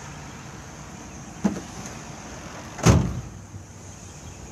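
A pickup's tailgate being opened: a sharp knock as it unlatches, then a heavier thud as it drops onto its stops, the thud the louder.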